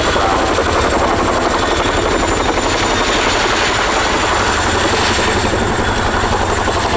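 Boeing Chinook HC6 tandem-rotor helicopter running loud and close: a dense, rapid chop from its two rotors over the steady high whine of its two turboshaft engines, unbroken throughout.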